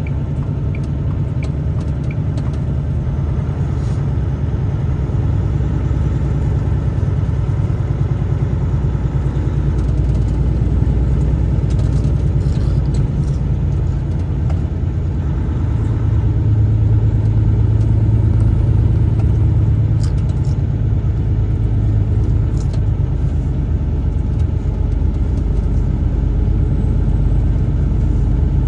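Truck driving: a steady low engine and road rumble, swelling a little in the middle as the engine works harder.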